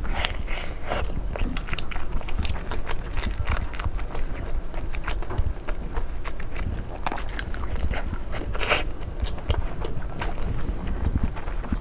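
Close-miked eating sounds: a person biting and chewing seafood, with many short wet, crackly clicks and louder crunches just after the start and again about eight and a half seconds in.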